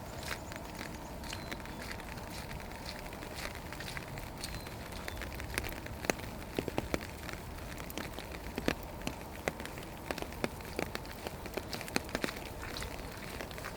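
Rain falling steadily, with scattered drops ticking and pattering irregularly, coming more often from about six seconds in.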